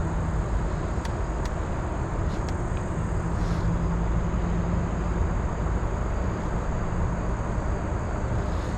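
Steady low rumble and hiss of wind buffeting the microphone outdoors, with a few faint clicks.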